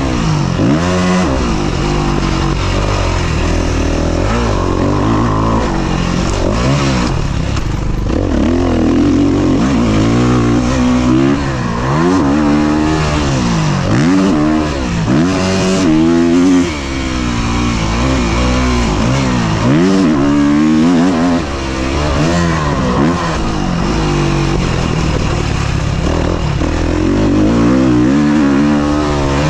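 Dirt bike engine revving hard and easing off over and over, its pitch climbing and dropping every second or two as the throttle is opened and shut and the gears change while riding motocross.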